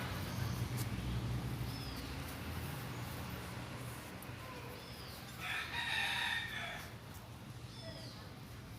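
Bird calls: a few short, high chirps and one longer call lasting about a second, a little past the middle.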